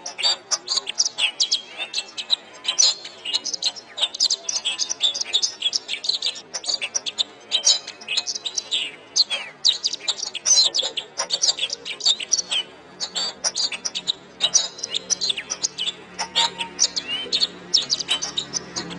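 Domestic canary singing continuously: a fast run of chirps, trills and rising and falling whistled notes. A low steady hum comes in during the second half.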